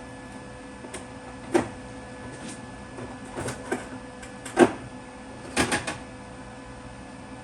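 A handful of sharp metal clinks and knocks, the loudest about halfway through, as steel tube and baffle plate pieces are handled on the workbench, over a faint steady hum.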